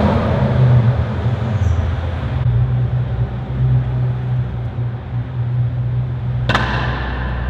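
Corvette V8 engine running steadily with a low note that barely changes in pitch. About six and a half seconds in there is a sudden sharp crack that dies away quickly.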